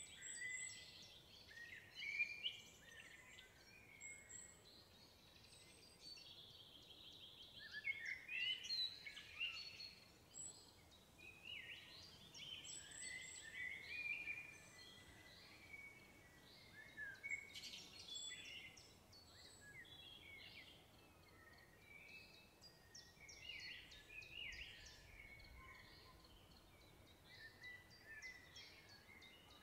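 Songbirds singing, a steady mix of short chirps and quick trills from several birds, faint overall.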